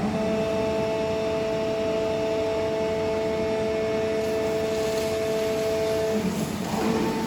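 Hydraulic power unit of a 160-ton horizontal metal baler running with a steady hum made of several tones. About six seconds in the tones change to a lower hum.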